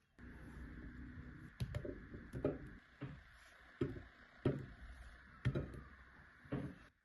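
A run of about eight light knocks and clatters at uneven intervals, over a steady background hiss that cuts off near the end.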